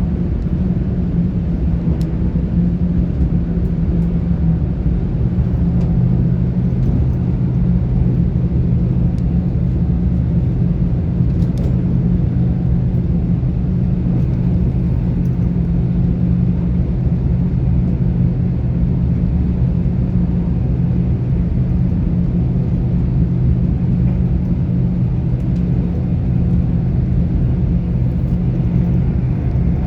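GWR Class 800 IET train running at speed, heard from inside the carriage: a steady rumble with a low, even drone.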